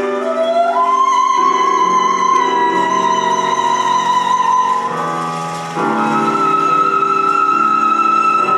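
Contemporary classical music from a chamber opera score: a high melody line in long held notes, gliding up to a held note in the first second and moving up to a higher held note about six seconds in, over sustained lower chords.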